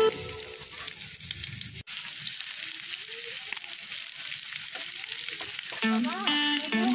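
Diced potatoes, carrots and sliced hotdogs sizzling in hot oil in a pan while being stirred, a steady hiss. Background music comes back in near the end.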